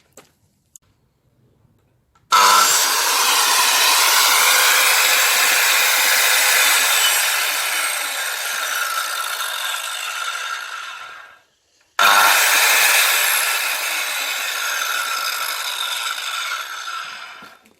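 Bosch GKS 190 corded circular saw making two long cuts through wood. The first cut starts about two seconds in and runs for roughly nine seconds; the second follows almost at once and runs for about six seconds. Each starts suddenly and trails off as the blade finishes the cut.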